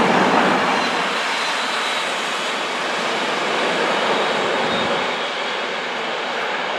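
A train passing through a station: a steady rushing noise of wheels on rail, loudest at the start and easing slightly after about a second.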